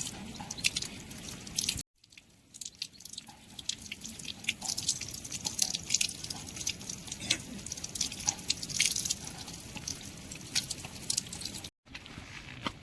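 Water dripping in many irregular, sharp drops over a faint hiss. The sound cuts out abruptly twice.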